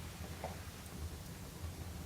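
Wood fire burning in a stove or fireplace: a low, uneven rumble with one faint crackle about half a second in.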